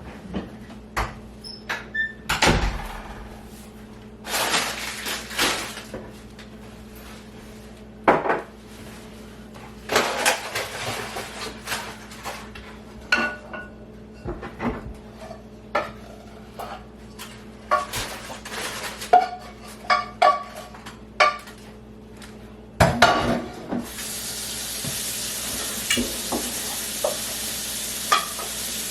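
Dishes, pans and cutlery clinking and clattering in a series of separate knocks while a kitchen is tidied. About four-fifths of the way through, a steady hiss starts and keeps going under the clinks.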